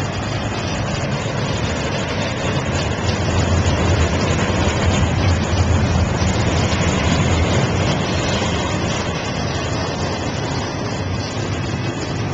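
CSX double-stack container freight train rolling past close by: a steady rumble of steel wheels on the rails from the cars going by, a little louder in the middle.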